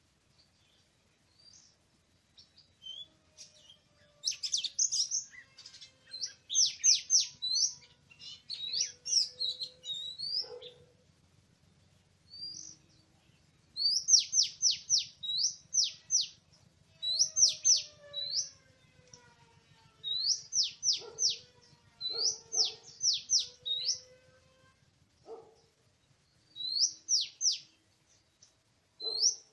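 Oriental magpie-robin singing a short phrase over and over: a quick run of high, down-slurred notes ending on an upward note, repeated every two to three seconds. Fainter, lower sliding whistles sound beneath it.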